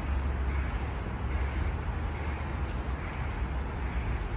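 Steady low rumble of road traffic, with an engine hum underneath and a faint background hiss.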